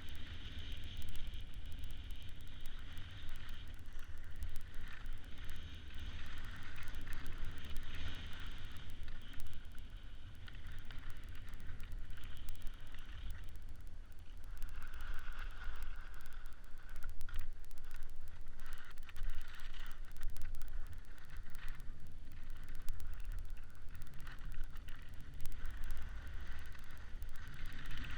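Wind buffeting the microphone, a continuous low rumble, over an uneven hiss that swells and fades, with scattered faint clicks.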